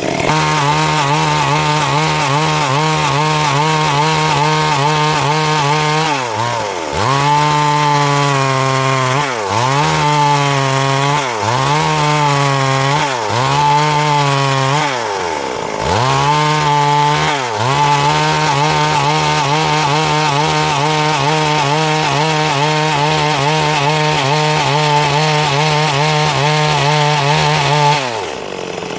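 Stihl MS 382 two-stroke chainsaw running at high revs while cutting wood. Its pitch dips and recovers about six times in the middle, then holds steady before falling away near the end.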